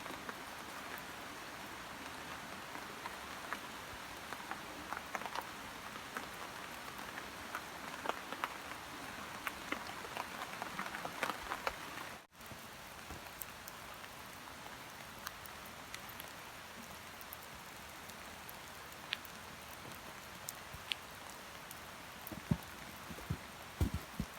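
Steady rain falling, with the ticks of single drops landing close by. About twelve seconds in there is a cut, after which the rain is a little quieter with fewer close drops, and a few low knocks come near the end.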